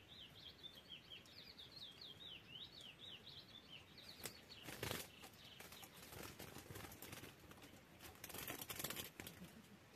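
Faint bird chirps, a quick run of short high notes, over the first few seconds; then faint wing flutter and rustling near the end as a small bird lands on a hanging bamboo trap cage.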